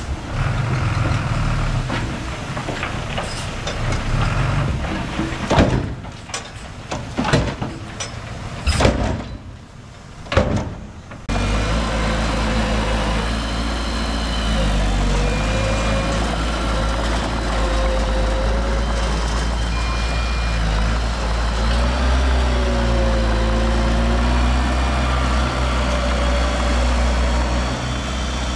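Heavy diesel construction machinery running. Irregular knocks and clanks fill the first part; about eleven seconds in the sound changes abruptly to a steady low engine drone.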